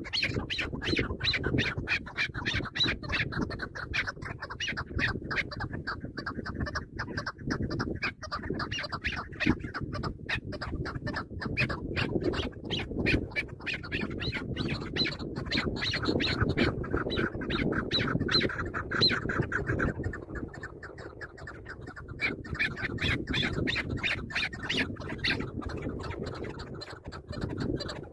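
Chukar partridges calling: a fast, chattering run of short repeated clucking notes, several a second, easing off briefly about two-thirds of the way through before picking up again.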